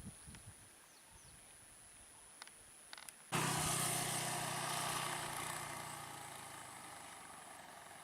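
A vehicle engine comes in suddenly, loud, about three seconds in, then runs steadily and slowly fades, as from a vehicle pulling away. Before it there are only faint bird chirps and a few clicks.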